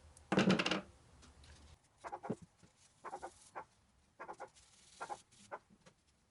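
Dog barking over and over in short doubled barks, about a pair each second, after a louder burst near the start. A low hum stops about two seconds in.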